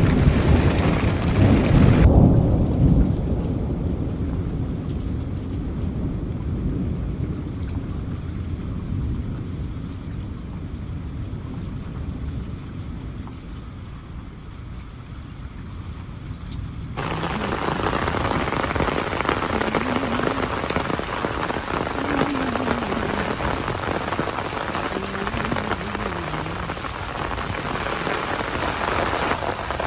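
Rain falling steadily, with a loud low rumble of thunder in the first few seconds. From about two seconds in, the rain's hiss drops away abruptly and the sound turns dull, until it comes back about seventeen seconds in.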